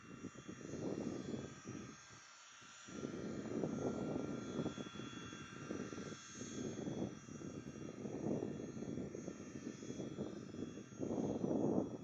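Jet engines of a Boeing C-17 Globemaster III running, with a steady high whine over an uneven low rumble that swells and fades, briefly dropping about two seconds in and loudest near the end.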